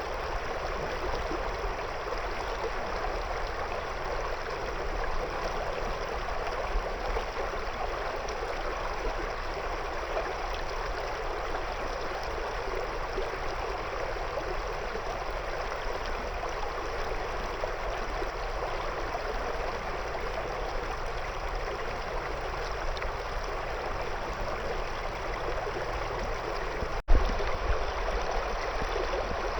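River water flowing around stones: a steady, even rushing babble. Near the end the sound drops out for an instant and comes back with a sharp click.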